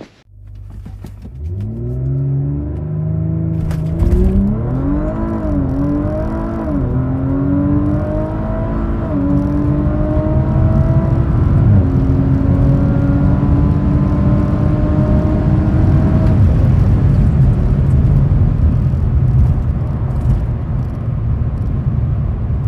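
2019 Audi RS5's 2.9-litre twin-turbo V6 at full throttle, heard from inside the cabin on a quarter-mile acceleration run. Revs build, then it launches about four seconds in, the pitch climbing through each gear with quick drops at the upshifts. About sixteen seconds in the engine note stops as the throttle is lifted at the end of the run, leaving steady wind and tyre noise as the car coasts.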